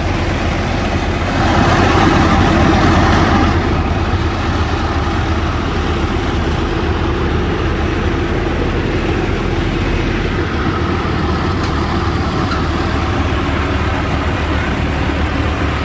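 Heavy engine of a sand-pumping rig running steadily, louder for about two seconds near the start, with the deepest hum dropping away about ten seconds in.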